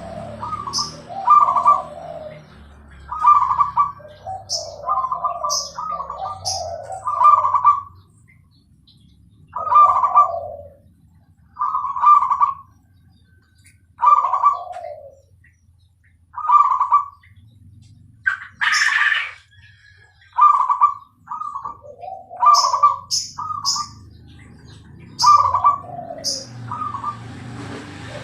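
Zebra dove (perkutut) cooing in a rapid, repeated song: phrases of higher notes falling to a lower trailing coo, about one every two seconds, with a couple of short gaps. Short high chirps run alongside, and there is a brief rushing noise a little past two-thirds of the way through.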